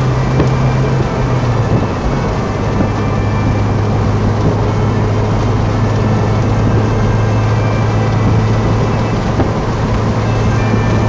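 A Mazda MX-5's four-cylinder engine runs at a steady cruise under heavy wind and road noise in the open cockpit. The engine note drops a little about a second and a half in, then holds steady.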